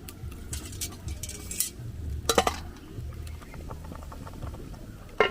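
Pots and kitchen utensils clinking and knocking in irregular light clicks while food is prepared. About two seconds in there is a brief, louder pitched sound.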